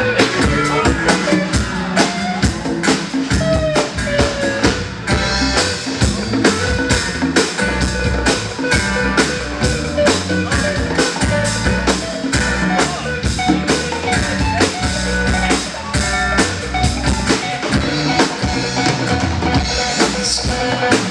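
Live band playing, with a drum kit keeping a steady beat of kick, snare and rimshots under the pitched instruments.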